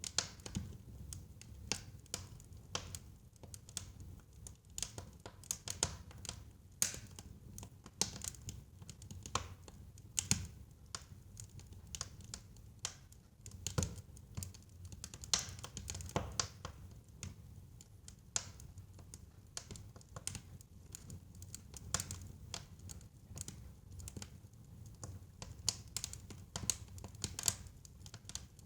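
Wood fire in a fireplace crackling, with irregular sharp snaps and a few louder pops over a steady low rumble of burning.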